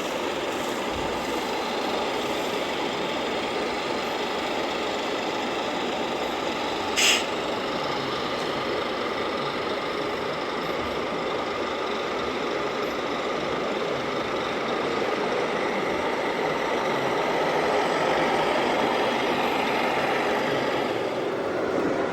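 Radio-controlled scale truck running, its sound unit making a steady engine noise. About seven seconds in there is one short, sharp hiss like an air-brake release.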